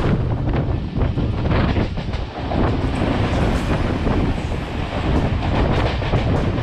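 Express passenger train rushing past at high speed: a steady roar of wheels and air with a rapid, irregular clatter of wheels over rail joints, and wind buffeting the microphone.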